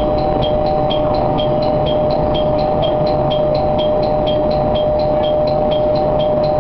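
Diesel railcar running steadily and slowly along the track, with a steady two-tone hum and a light, quick ticking about four to five times a second throughout.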